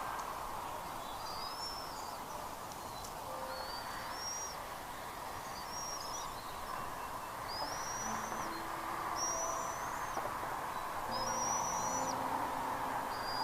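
Bald eagle giving thin, high, whistled calls over and over, one every second or two. Each call rises slightly, holds, then breaks off. A steady hiss runs underneath.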